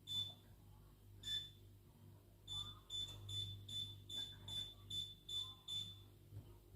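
Electronic beeps from an electric stove's control panel: a single beep, another a second later, then a run of about eight quick beeps, like a button being pressed repeatedly to set the heat.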